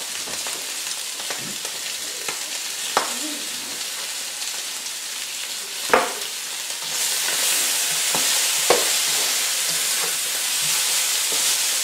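Chicken strips sizzling in a hot skillet, with a few sharp clinks, the loudest about six seconds in. The sizzle grows louder from about seven seconds on as the chicken is stirred.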